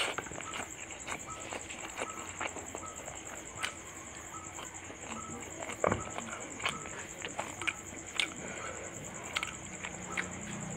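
Close-up eating sounds of a person eating fish curry and rice by hand: wet chewing clicks and lip smacks at an irregular pace, over a steady high-pitched hum.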